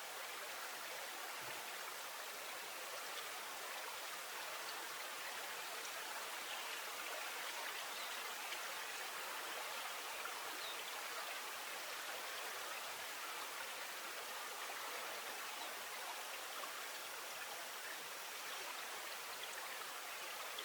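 Flowing river water: a steady, even rush with a faint patter and no pauses.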